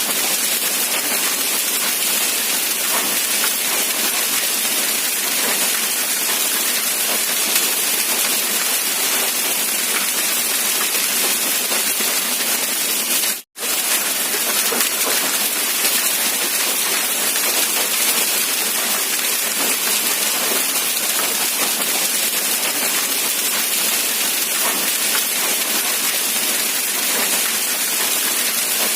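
Steady rain falling, an even hiss of drops with no pauses except one momentary dropout about halfway through, where the sound cuts out for an instant and resumes.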